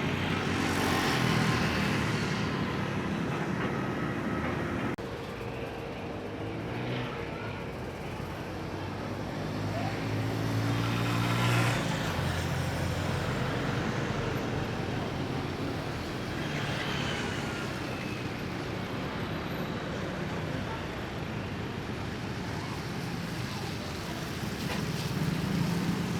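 Steady engine rumble of vehicles, with a low hum that shifts in pitch now and then.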